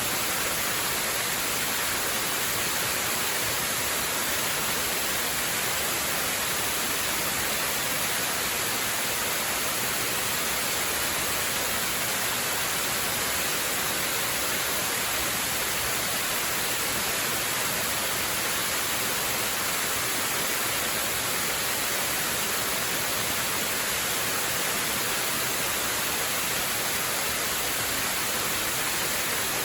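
Waterfall: water falling in a steady, unbroken hissing rush that never changes in level.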